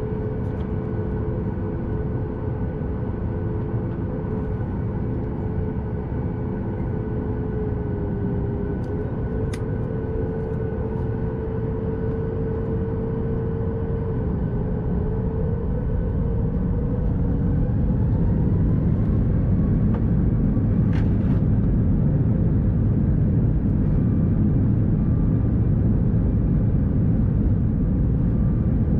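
Boeing 737 MAX 8's CFM LEAP-1B turbofan engines, heard from inside the cabin. They run steadily at low power, then about halfway through they spool up with a rising whine as thrust is increased, and the rumble grows louder and holds. A couple of faint clicks sound over it.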